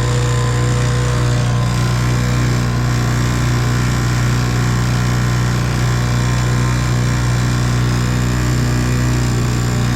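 1958 Evinrude 3 hp two-stroke outboard motor running at a steady speed, an even, unchanging hum.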